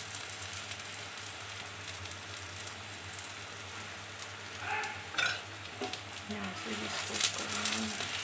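Besan chilla frying in oil on a flat griddle (tawa), a steady sizzle with fine crackles. The crackling grows louder near the end as a wooden spatula works under the pancake.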